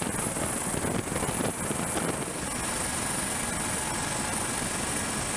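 Twin-engined MH-65 Dolphin helicopter running, a steady rush of rotor and engine noise with a thin, steady high whine above it.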